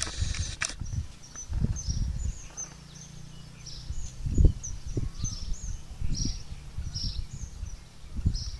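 A bird repeating short, high-pitched chirps about once a second, with a brief hiss right at the start and several low thumps.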